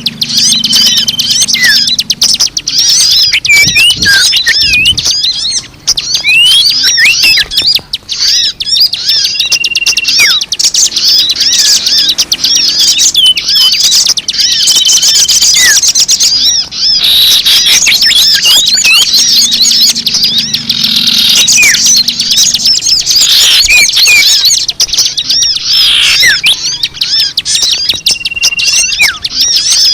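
Dense chorus of many small birds chirping and twittering at once, a loud unbroken mix of quick calls, with a few whistled notes each held for about a second. It is a bird-lure call recording meant to draw in birds of many kinds.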